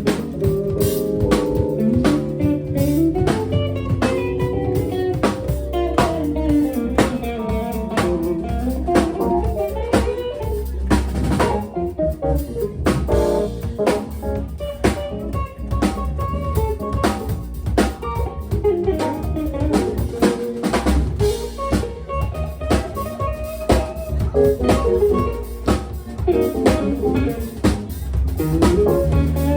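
A band playing an instrumental groove with electric guitar, bass and a drum kit, snare and rimshots on a steady beat.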